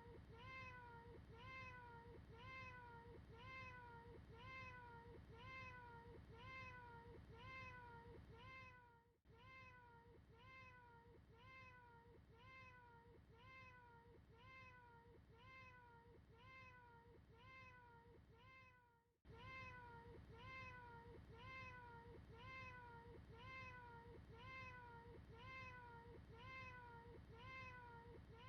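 A short cat meow looped over and over, faint, repeating about twice a second, each call rising then falling in pitch; the loop breaks off briefly about every ten seconds.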